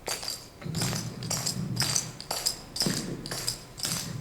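Clogging shoe taps striking a hard floor with a metallic jingle, about two sharp strikes a second.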